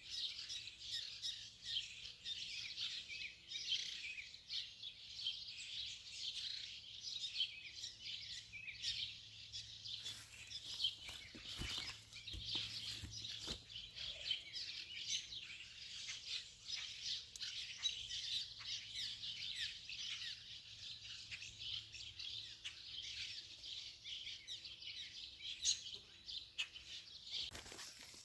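Many birds chirping in a dense, continuous chorus of quick high calls, with a faint steady low hum underneath.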